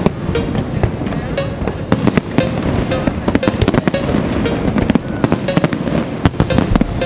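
Fireworks going off in rapid succession, a dense run of sharp bangs and crackles with no break, over music with a regular beat.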